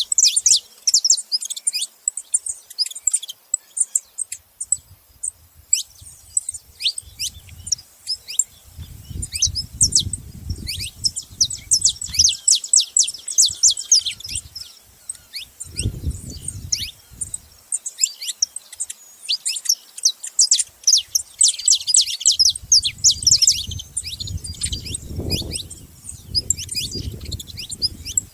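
Saffron finches chirping at a feeding spot: a steady run of rapid, sharp, high chirps that overlap densely at times. A low rumble comes and goes underneath.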